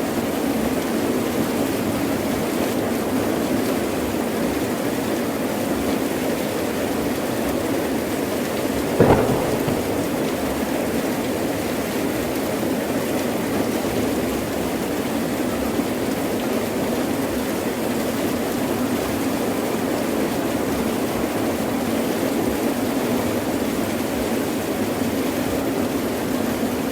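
Heavy rain falling steadily, with a single sudden sharp crack of thunder about nine seconds in.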